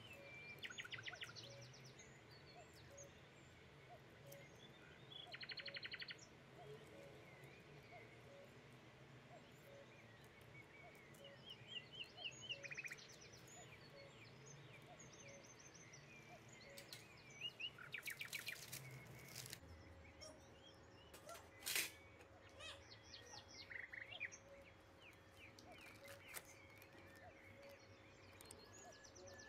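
Faint birdsong: short, rapid chirping trills repeated every few seconds. One sharp click about two-thirds of the way through.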